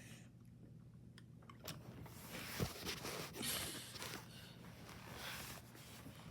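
Garbage truck running at a distance with a steady low hum. From about two seconds in comes a rush of clattering noise with a sharp thump, as the truck works the dumpster.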